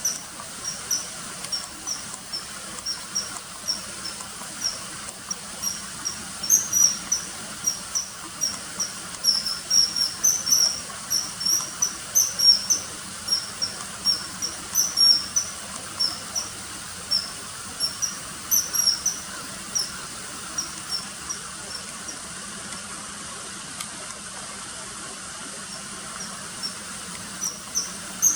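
Common kingfisher calling: short, high, thin notes repeated several times a second in irregular runs, falling silent for several seconds in the latter part, over a faint steady hiss.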